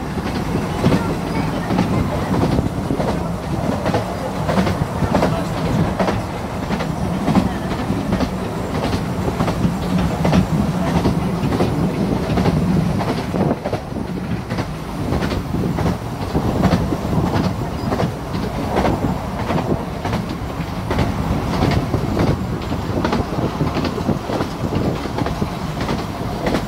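A 15-inch-gauge miniature railway train running along the track, heard from an open-sided carriage: a steady rumble with a regular clicking beat.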